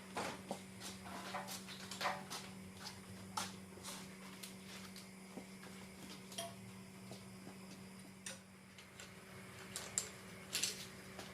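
Scattered light metallic clicks and clinks of hand tools and parts being handled, the loudest about two, three and a half, ten and ten and a half seconds in, over a steady low hum.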